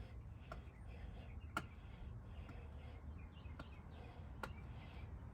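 A few sharp, irregular clicks of hand tools on metal, the loudest about a second and a half in, while work goes on removing the AC bracket from the engine, over a low steady rumble. Faint bird chirps in the background.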